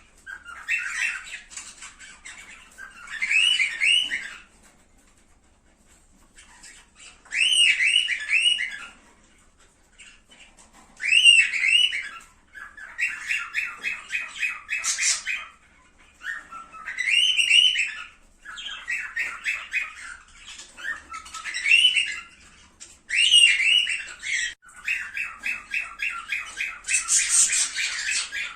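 Cockatiels singing and calling: short warbled whistle phrases that rise and fall, repeated every few seconds with brief pauses. Some phrases are followed by fast chattering runs, the longest near the end.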